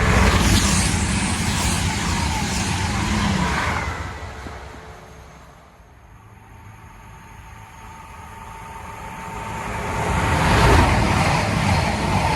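A passenger train passing at speed, a loud rush of wheel and engine noise that fades away over about four seconds. A second passing rush then builds to a peak near the end.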